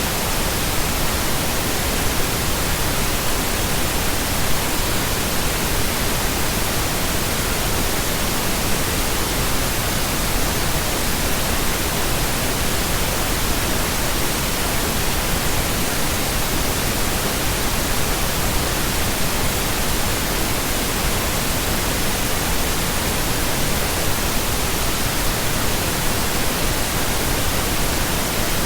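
Steady synthetic pink noise: an even hiss spread across all pitches that never changes.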